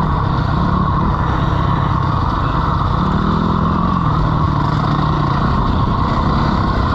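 Dirt bike engine running while riding, its note rising briefly about three seconds in and settling back, with steady wind rush over it.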